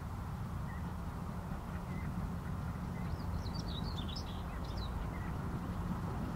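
Birds chirping: small repeated chirps, with a quick flurry of higher chirps in the middle, over a steady low rumble.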